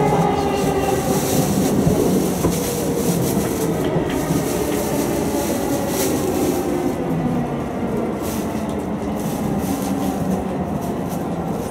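Yamanote Line electric commuter train heard from inside the carriage, running on the rails with a steady rumble. The electric motors' whine falls in pitch through the first half, and short clacks from the rails come through in the second half.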